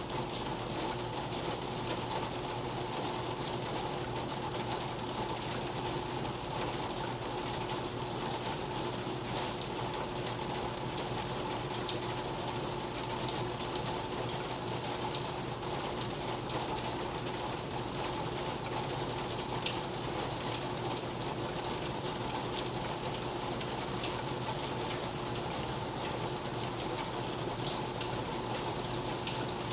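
Steady rain falling, with scattered faint drip ticks.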